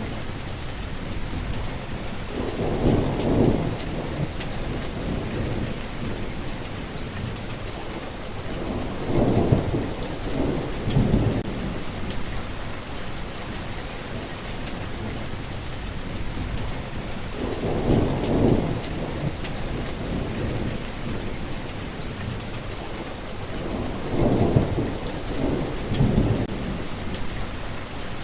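Steady rain falling throughout, with thunder rumbling four times, low and rolling, about every six to eight seconds.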